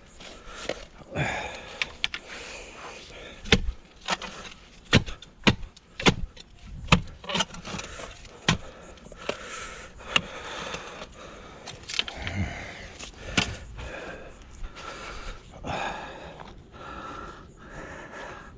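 A digging tool striking down into a post hole in sandy soil, about a dozen irregular sharp strikes with scraping and crunching between them, knocking against a stone lodged at the bottom of the hole.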